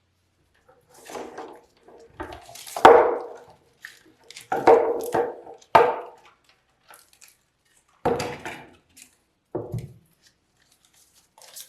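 Irregular bursts of knocking and scraping on wood, about half a dozen over several seconds, with a sharp knock about three seconds in and another about six seconds in.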